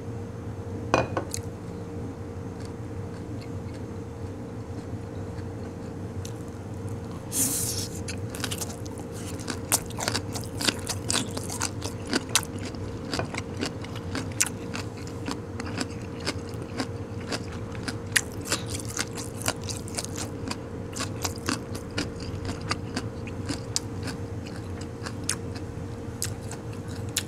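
Close-up chewing of blanched, seasoned goji-berry shoots: a run of small wet clicks and crisp crunches as the shoots are bitten and chewed, over a steady low hum.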